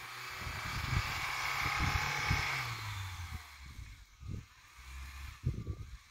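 Lada Niva's engine running as the 4x4 pushes through deep snow, heard from outside the car. The engine and snow noise grow louder over the first few seconds and then ease off, with irregular low rumbles throughout.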